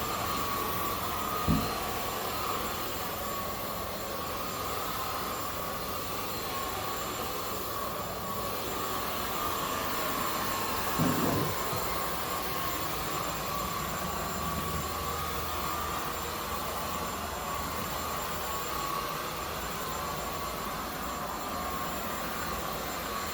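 Zoker A10 Pro cordless stick vacuum running steadily on its highest power setting, a constant high whine over rushing air. A low thump comes about a second and a half in, and another around eleven seconds in.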